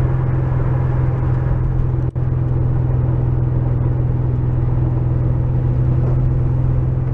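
Porsche 911 engine running steadily while the car is driven, heard from inside the cabin as a steady low drone, with a momentary dropout about two seconds in.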